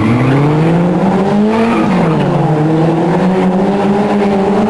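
Race car engine under hard acceleration. Its pitch climbs sharply at the start, dips briefly about two seconds in, then holds and creeps slowly higher.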